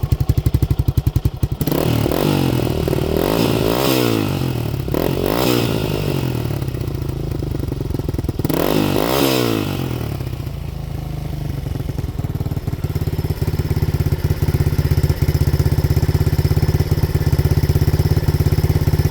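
1985 Honda ATC 200X's single-cylinder four-stroke engine, breathing through a new universal aftermarket muffler, idling and then revved three times, each rev rising and falling back, before it settles to a steady idle. The idle sits a little high.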